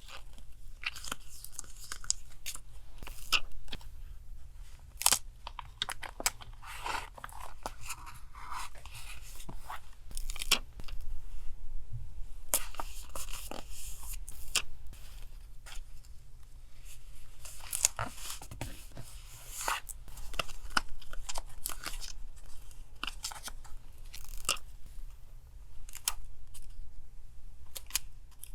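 Paper and stickers being handled for a journal collage: irregular rustling, tearing and small taps in short bursts.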